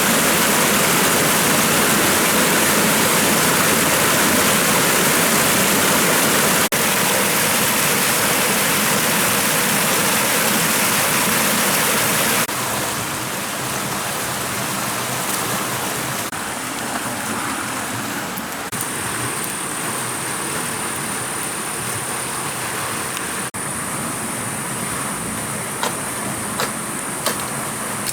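Steady, loud rushing water, as of heavy rain or a running stream, that shifts abruptly at several edits and is quieter after about 12 seconds. From about 17 seconds a thin, steady high-pitched tone joins it, and a few sharp ticks come near the end.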